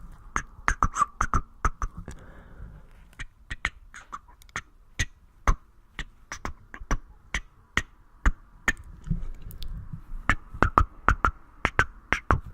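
Close-up ASMR mouth sounds: irregular sharp clicks and pops, some in quick clusters of several.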